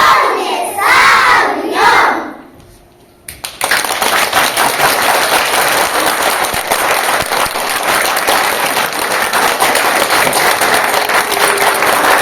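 Children's voices calling out together for about two seconds, then after a short pause an audience starts applauding about three and a half seconds in and keeps clapping steadily.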